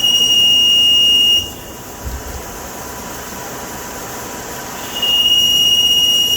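Victor V-Turn 26 CNC lathe at work on hard steel, giving a high, steady, single-pitch squeal twice: once at the start and again near the end, each lasting about a second and a half and starting and stopping sharply, over the machine's steady running noise.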